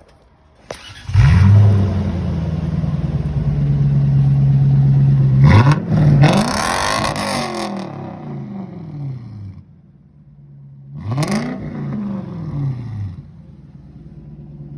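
Straight-piped 1990 Lexus LS400 V8 with no mufflers or resonator, firing up about a second in and idling loud and raw, then revved twice, each rev climbing and falling back to idle.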